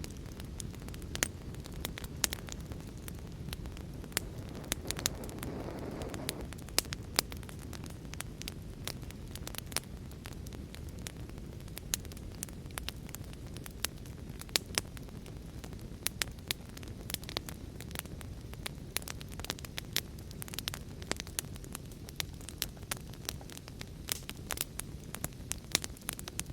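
Wood fire in a fireplace crackling, with frequent irregular sharp pops over a steady low rush, which swells briefly about five seconds in.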